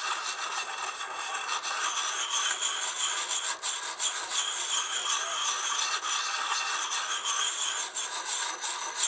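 Lansky Puck sharpener's coarse side, wet with honing oil, grinding in circles against the edge of an Estwing camp hatchet: a continuous rasping scrape of stone on steel.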